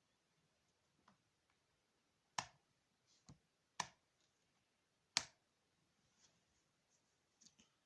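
A series of sharp clicks and taps, three louder ones evenly spaced about a second and a half apart, with fainter ticks before and after.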